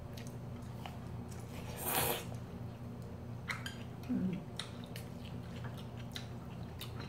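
People eating chive bibimbap and instant ramen at the table: chewing with many small wet clicks, a short louder noisy sound about two seconds in, and a brief hummed murmur about four seconds in.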